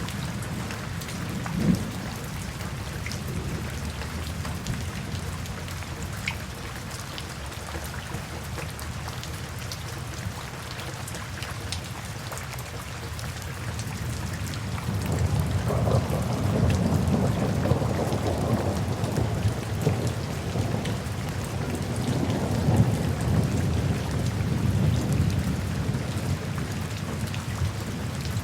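Steady rain falling, with scattered drops ticking. About halfway through, a low rumble of thunder swells in and rolls on to the end.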